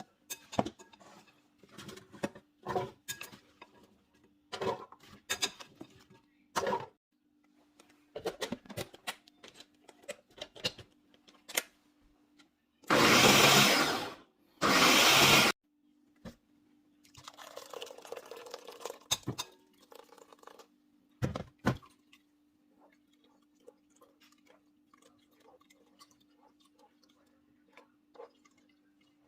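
Kitchen work with scattered knocks and clicks of handling, and two short loud bursts of a blender running, each about a second, halfway through, over a low steady hum.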